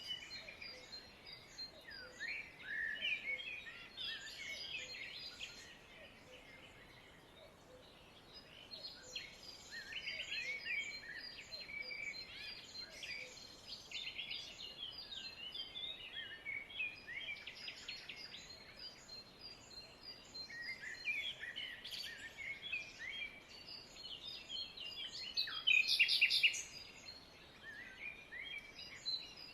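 Many small birds chirping and trilling over one another in a dense, continuous chorus, with a louder flurry of calls near the end.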